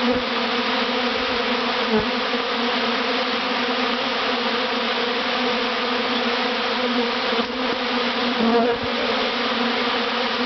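Dense, steady buzzing of a large honeybee swarm right around the microphone, a continuous hum of many wingbeats, with a few brief soft taps.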